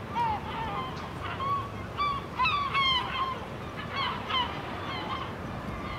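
Birds calling: a run of short, pitched calls, several close together in the middle, over steady outdoor background noise.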